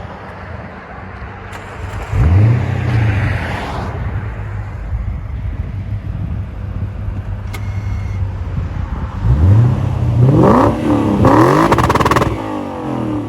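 2007 Lexus LS 460L's 4.6 L V8 through a dual exhaust with the mufflers deleted (stock converters and resonators kept), idling and revved: one quick blip about two seconds in, then a run of about three revs near the end.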